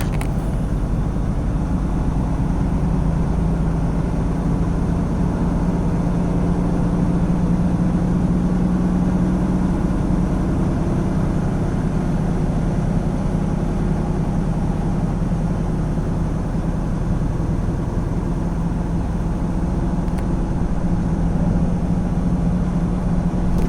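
Semi truck's diesel engine and road noise heard inside the cab as it drives: a steady drone with a low hum that grows a little stronger now and then.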